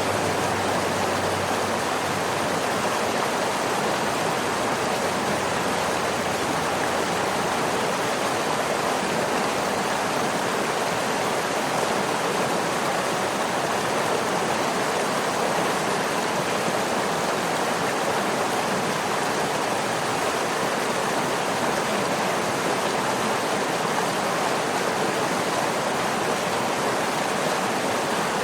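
Waterfall rushing: a steady, even roar of falling water with no breaks or changes.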